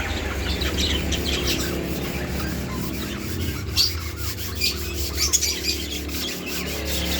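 Budgerigars and lovebirds chirping and chattering, with a few sharp squawks in the middle, over a steady low hum.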